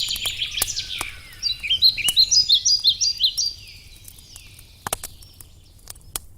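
Wood fire crackling, with scattered sharp pops over a low steady rumble, while a songbird sings a fast trill and then a quick series of repeated chirping notes that stop about halfway through.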